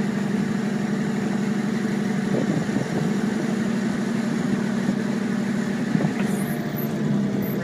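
An engine running steadily at an even speed, from the machine lifting a sunken truck out of a pond, with a few faint knocks.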